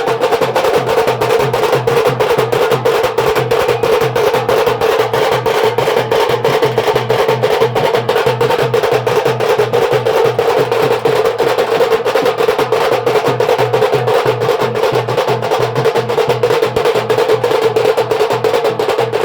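Band percussion playing a fast, even drum rhythm without a break, strokes coming several times a second over a steady ringing tone.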